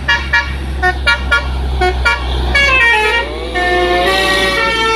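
Heavy truck engine rumbling low under a rapid series of short horn toots. About halfway through, a longer horn sound of several notes dips and then rises in pitch.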